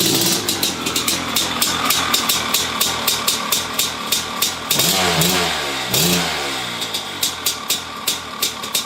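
1997 Maico 500 single-cylinder two-stroke dirtbike engine running, its exhaust popping unevenly about four or five times a second, with two short throttle blips about five and six seconds in. The owner took it to be running rich while still cold.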